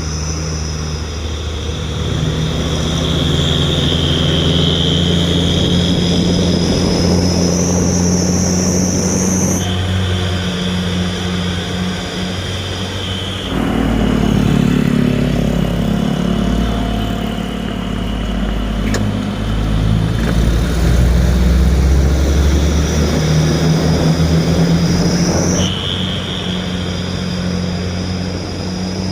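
Diesel truck engine running through a modified exhaust, the note rising and falling as it is revved and pulls, with a steady high whine above it that steps in pitch a few times.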